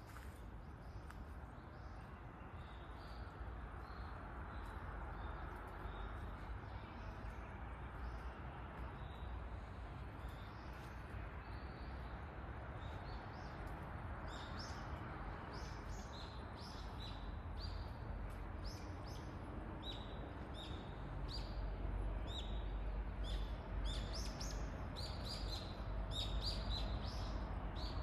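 Small birds chirping, short calls that come sparsely at first and grow busier from about halfway through, over a steady low rumble of background noise.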